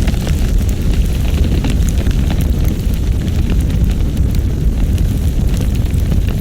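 Strong wind of a snowstorm blowing: a steady deep rumble with many faint scattered crackles.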